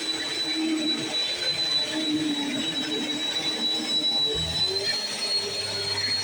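Bissell CleanView Swivel Pet 2252 upright vacuum cleaner running steadily while vacuuming: a constant high motor whine over rushing airflow, with a lower tone that rises and falls.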